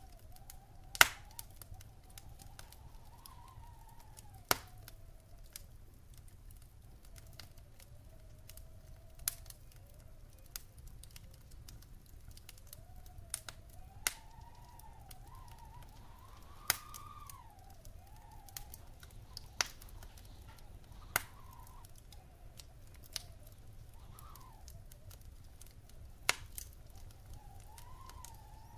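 Wood fire burning in a fireplace: a low steady rumble of flames with irregular sharp crackles and pops, the loudest about a second in. A faint, wavering whistle drifts up and down in pitch through it.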